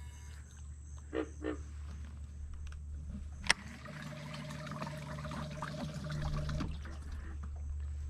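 Electric trolling motor running with a steady low hum. About three and a half seconds in there is a sharp click, then for about three seconds a higher motor tone and water churning as the propeller works the shallow water.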